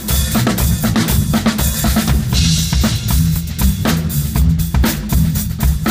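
Drum kit being played in a studio take: dense, fast bass drum and snare hits under cymbals, with a longer cymbal wash about two seconds in.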